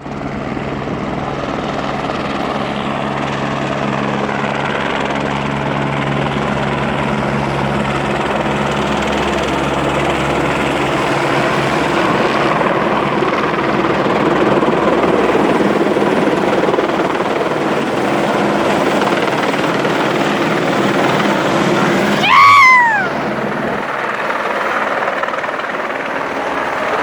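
Fire department helicopter's rotor and turbine running steadily and loud. About 22 seconds in, a sudden loud sound with a short falling whine cuts through it.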